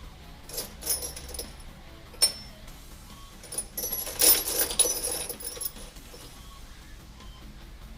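Small metal parts clinking and rattling as they are handled, with a single sharp click about two seconds in and a longer, louder stretch of clatter around the middle.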